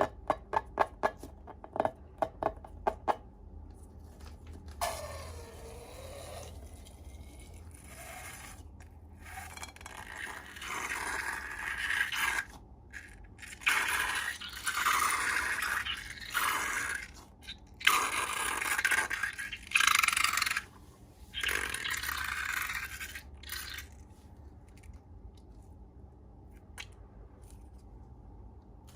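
Slime being scraped and stirred in a series of rough scraping strokes, loudest in the middle stretch, after a quick run of sharp clicks near the start.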